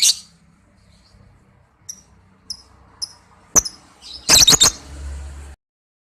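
Lovebird calling with high, shrill chirps: a few short ones about two to three seconds in, then a burst of loud, piercing screeches around four and a half seconds in, before the sound cuts off abruptly.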